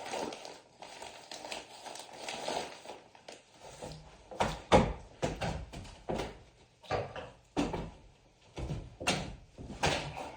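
Irregular knocks and thumps of hand carpentry work on a wall frame, about ten over the last six seconds, the loudest about five seconds in.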